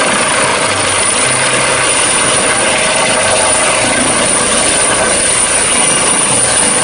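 Helicopter sound: steady rotor and engine noise with a thin high whine.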